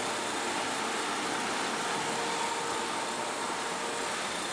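Steady engine-room machinery noise: a dense, even hiss with a faint steady hum and no change in pitch or level.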